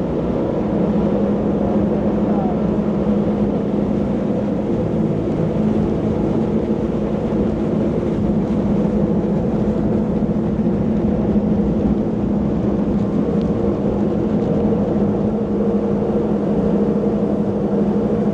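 Jet boat engine running steadily at cruising speed, its even drone holding pitch, over a constant rush of noise.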